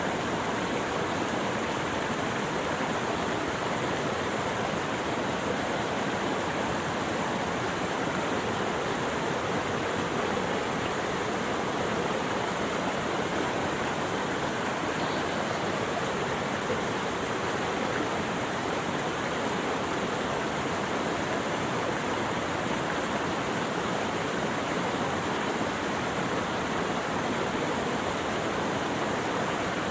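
Running water rushing steadily, an even, unbroken wash of sound with no distinct splashes or changes.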